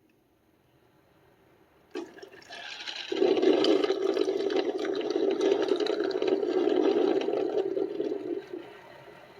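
Ninja DualBrew coffee maker clicking on about two seconds in, then water rushing through it for about five seconds as it drains water out of its tank, dropping away near the end. It is part of a fault in which the machine shuts itself off and resets right after being switched on.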